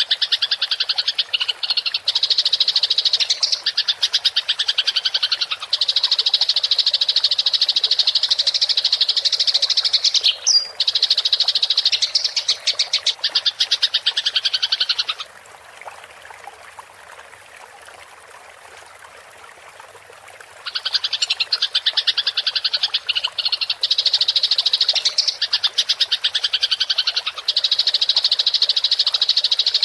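Eurasian tree sparrows giving fast, rattling fighting chatter in long continuous rolls. It breaks off a little past halfway for about five seconds, leaving a faint hiss of running water, then starts again.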